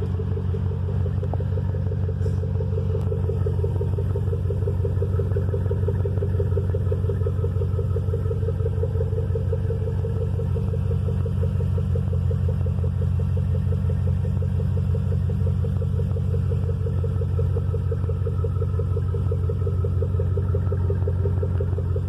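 2003 Cadillac Escalade's 5.3-litre Vortec V8 idling steadily shortly after a cold start, through a Cherry Bomb Extreme single-chamber muffler with a turn-down tip: a deep, even exhaust drone with a rapid, regular pulse and no revving.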